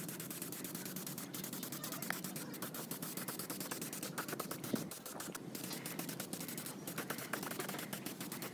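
Steady, rapid scratchy scraping, a dense run of small scrapes and clicks, typical of hand work rubbing or scraping a part during restoration.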